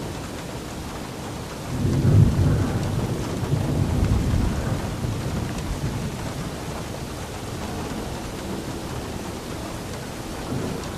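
Steady rain with a roll of thunder: a deep rumble comes in about two seconds in, swells for a few seconds and fades away.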